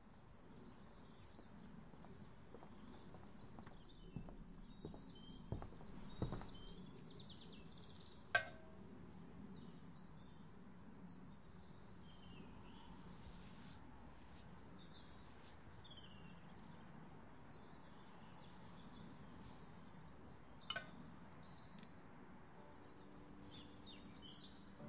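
Faint outdoor ambience: a low steady background hum with birds chirping now and then. A few light knocks stand out, the sharpest about a third of the way in and another near the end.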